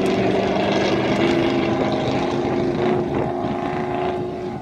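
Race truck engine running at steady revs, dropping away about four seconds in as it moves off.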